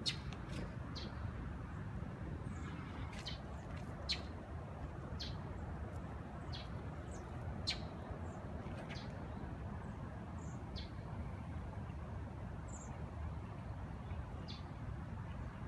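Small birds chirping: short, high calls scattered every second or so, over a steady low background rumble.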